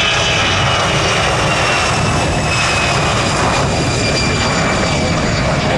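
Jet aircraft engines running loud, with a high whine that drops slowly in pitch as the aircraft passes.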